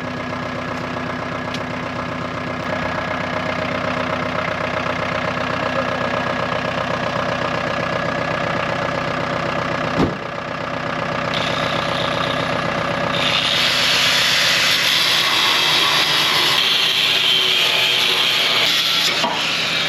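Angle grinder running steadily with a motor hum, then biting into the truck's steel from about two-thirds of the way through with a loud, harsh hissing rasp. There is a single sharp knock about halfway through.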